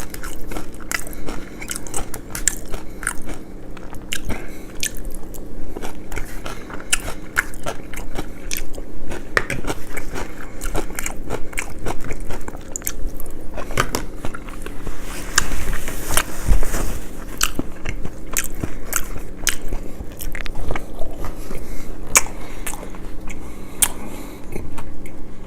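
Close-miked eating: crisp, crunchy bites and steady chewing of crunchy food, dense irregular crackles throughout, with a louder crunchy stretch about two-thirds of the way through.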